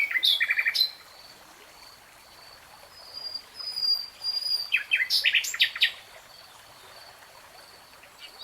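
A songbird singing in short phrases of quick, varied chirps and rapid trills. One phrase comes at the start and another around five seconds in. A thin, steady high whistle is held between the phrases.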